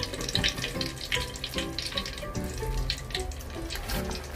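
Wontons deep-frying in hot oil in a pot, the oil sizzling with a dense, irregular crackle.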